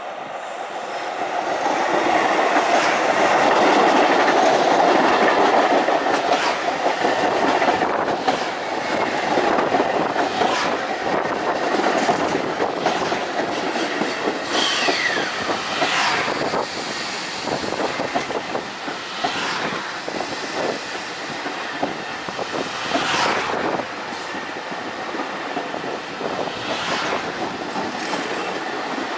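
LIRR M3 electric multiple-unit train passing close by at speed, its wheels running over the rails with irregular clicks and knocks. It swells to its loudest about four seconds in as the lead car goes by, then holds steady as the cars stream past, with a brief falling squeal about halfway through.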